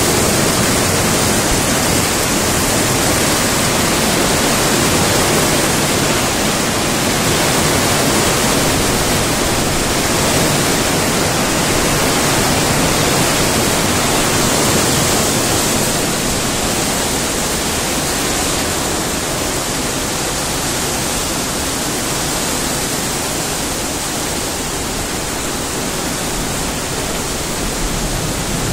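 Heavy rain falling steadily as a dense, even hiss, a little softer in the second half.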